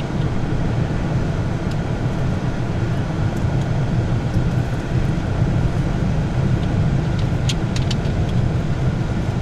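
Steady low rumble of a vehicle on the road, engine and tyre noise, with a few faint clicks near the end.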